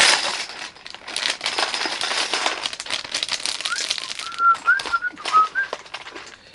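Loose LEGO pieces rattling and clicking as they are sorted and pressed together, with crinkling plastic parts bags. In the middle, a few short high whistle-like notes.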